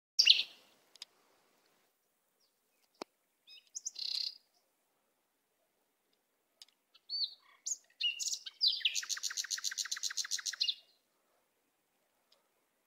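Forest birds calling: scattered short chirps and whistled calls, then a rapid, even trill of about ten notes a second lasting about two seconds, past the middle. A single sharp click sounds about three seconds in.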